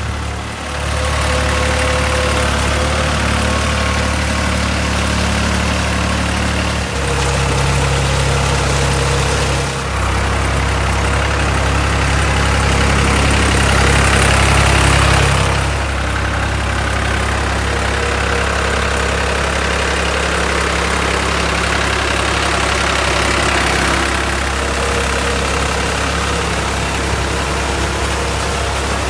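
Diesel engine of a New Holland tractor running, its note and load shifting several times. It grows louder to a peak about fifteen seconds in, then settles back.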